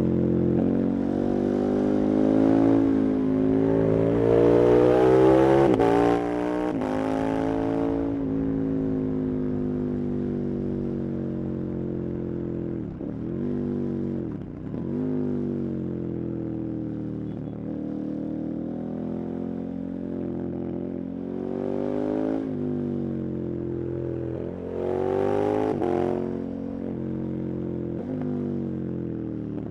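KTM 1290 Super Adventure's V-twin engine under hard riding: its pitch climbs steadily under acceleration for the first several seconds, then the revs drop off. Two short dips follow as it shifts down, then a steadier stretch, and near the end it picks up twice more with the throttle opened.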